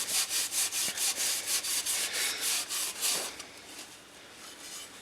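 Scotch-Brite scouring pad scrubbing a stainless steel exhaust tip in quick back-and-forth strokes, about four a second, working at stubborn road tar. The scrubbing stops about three seconds in.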